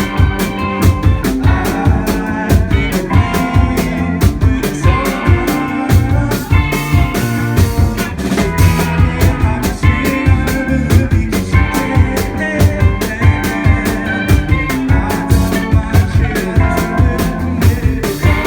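A live rock band playing an instrumental passage: electric guitar and bass over a steady drum-kit beat.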